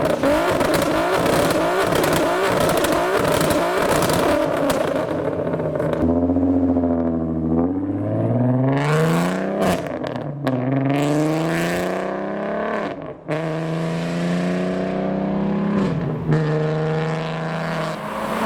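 Volkswagen Golf R32's VR6 engine running loud, revved hard with a rapid stuttering note for the first six seconds. It then pulls away, the pitch climbing and dropping several times as it shifts up through the gears.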